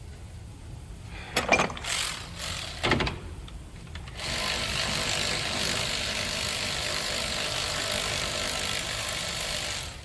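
A few metal clanks and knocks, then a steady hiss for about six seconds that stops abruptly.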